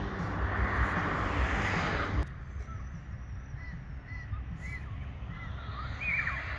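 A steady rushing noise that cuts off suddenly about two seconds in, then birds calling: a run of short, evenly spaced calls repeated roughly twice a second.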